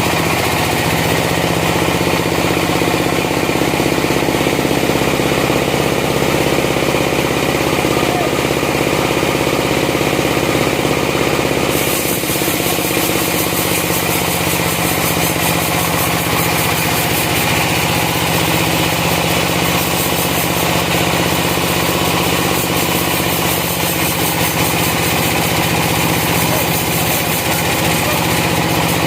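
Sawmill machinery running steadily with a loud, continuous engine drone. The sound changes slightly about twelve seconds in, getting a little quieter with more hiss in the highs.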